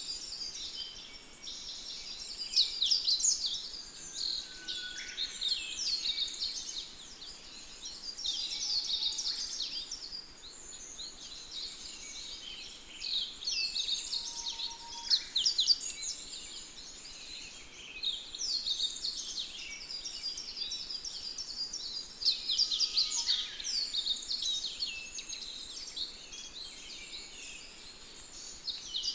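Chorus of small songbirds chirping and trilling continuously, many quick overlapping high notes.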